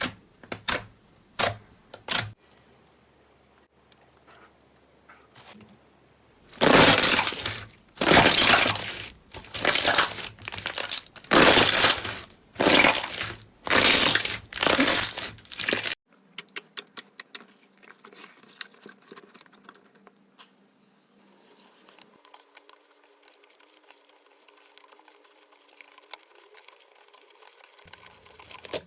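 Slime being squeezed and pressed by hand, making crackling, crunching sounds. A few sharp pops come first, then a run of loud crunchy squishes about once a second, then fainter rapid clicking.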